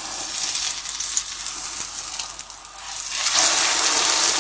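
Egg-coated eggplant sizzling as it fries in a pan, a steady hiss that grows louder about three seconds in.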